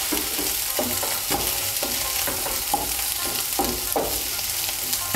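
Soya chunks sizzling in hot mustard oil in a non-stick kadai as a spatula scoops them out, with repeated short scrapes over the steady sizzle.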